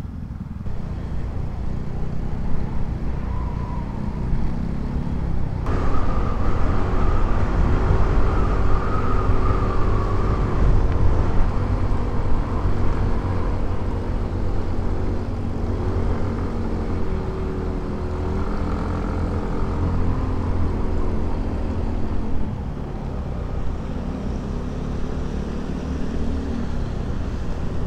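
Motorcycle engine running under way with road noise. The engine note drifts gently up and down and gets louder about six seconds in.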